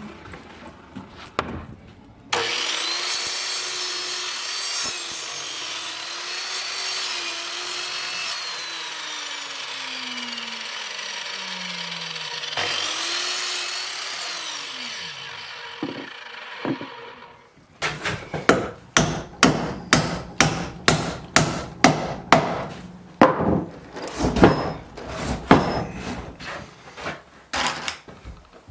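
An electric saw runs and cuts timber for about ten seconds, its motor winding down in pitch when released. It is started again, spinning up briefly before winding down. This is followed by a run of sharp, regular knocks, about two a second.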